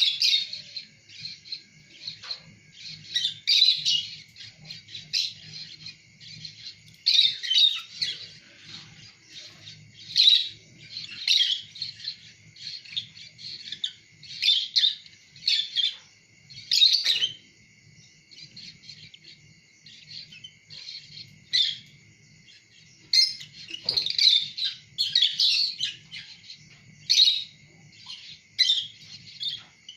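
Lovebirds chirping in short, sharp calls that come in irregular clusters, with quieter gaps of a second or two between them. A faint steady high whine runs underneath.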